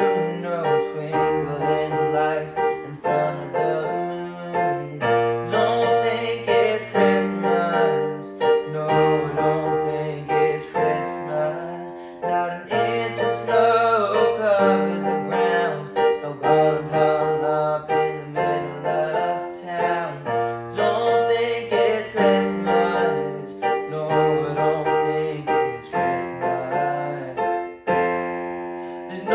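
Piano playing an instrumental passage of a song, chords over a repeating bass line.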